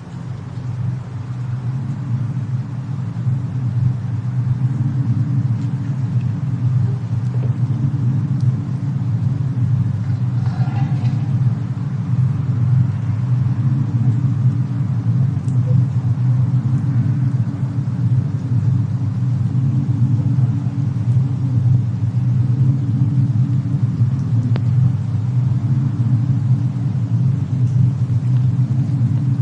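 Steady low rumble of a fireplace-and-snowstorm cabin ambience, fading in over the first second or two, with a few faint crackles.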